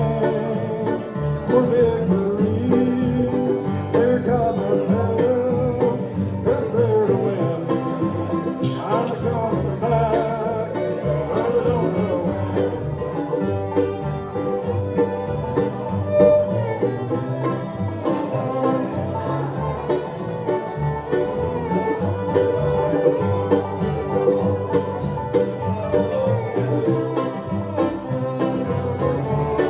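Bluegrass band playing an instrumental break with banjo, guitar and fiddle.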